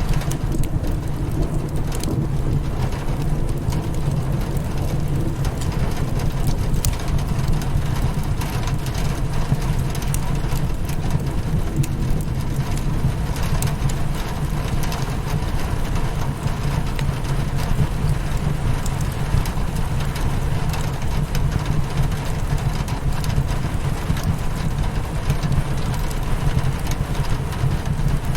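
Rain hitting a windowpane mixed with a crackling wood fire: a steady low rumbling patter with scattered sharp pops and taps throughout.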